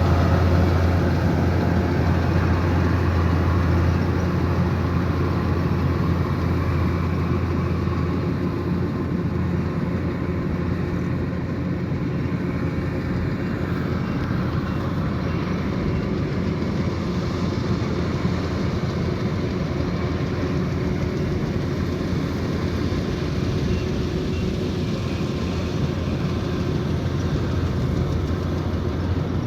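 Kubota DC108X combine harvester running, its diesel engine giving a steady low drone over the clatter of the machine, easing a little in loudness over the first several seconds.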